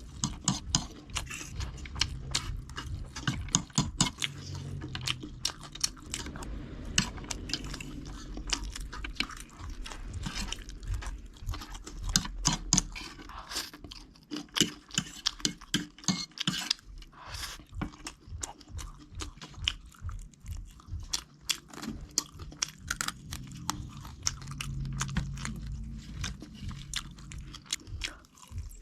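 A person eating crunchy food close to the microphone: a long run of crisp crunches and chewing.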